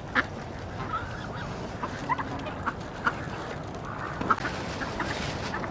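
Canada geese honking and ducks quacking in short, scattered calls as they squabble over bread.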